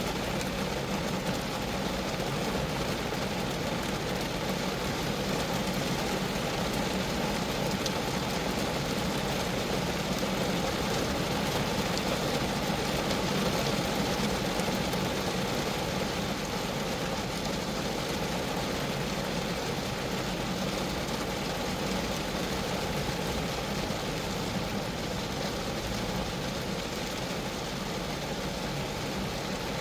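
Rain falling steadily on a Geo Metro's body, an even hiss of drops with a low drumming rumble from the sheet metal underneath.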